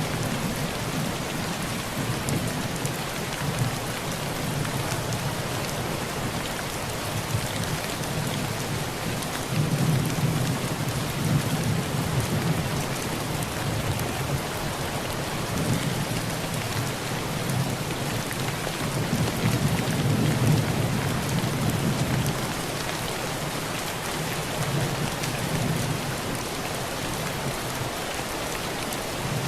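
Heavy rain falling on a rusty tin roof, a steady dense patter. Low thunder rolls under it, swelling about ten seconds in and again around twenty seconds.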